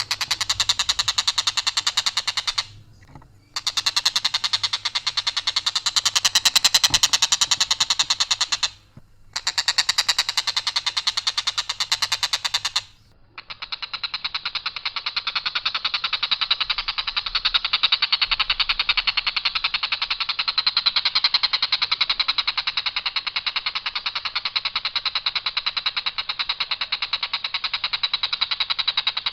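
Tengkek buto kingfisher giving a long, harsh, very rapid rattling call on one pitch without variation. It breaks off briefly three times in the first half, then runs on unbroken with a duller tone.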